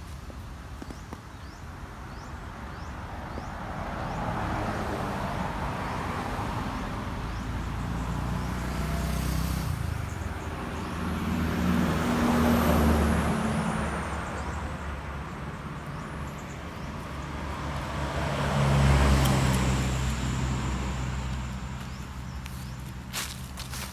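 Motor vehicles passing by one after another, each engine growing louder and then fading, with the loudest pass-bys about halfway and three quarters of the way through.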